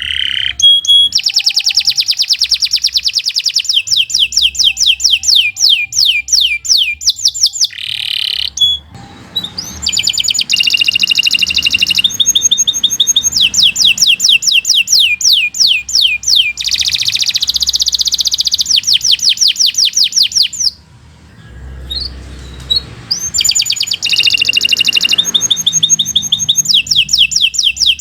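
Domestic canary singing a long, fast song of rapid repeated trilled notes in rolls, pausing briefly a little past the middle.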